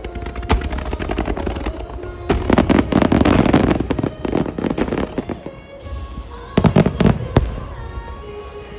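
Fireworks bursting and crackling over music in a music starmine: rapid volleys of aerial shells, densest about two and a half seconds in and again near seven seconds.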